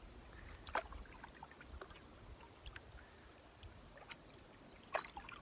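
Canoe being paddled: faint paddle strokes and water splashing and dripping, with two louder splashes, about a second in and near the end.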